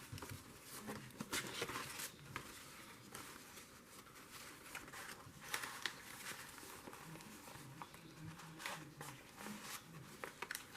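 Faint rustling of paper with scattered light taps and clicks as journal pages and loose paper pieces are handled.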